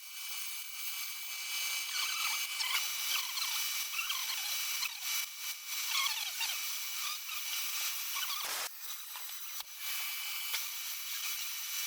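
A 21 mm drill boring out the spark-plug well in an aluminium cylinder head: a steady machining hiss with a thin, wavering whine from the cut.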